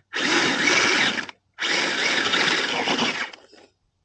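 RC crawler truck's electric motor and geared drivetrain whirring in bursts close to the microphone, each cutting off abruptly as the throttle is released.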